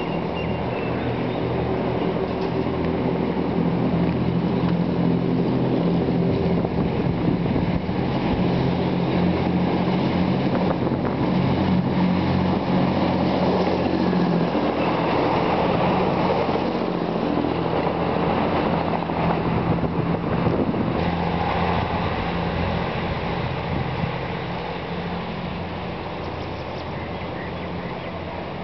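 Diesel passenger train passing: a steady engine hum over the rumble of wheels on rails. It builds over the first few seconds, stays loud through the middle and fades near the end as the train moves away.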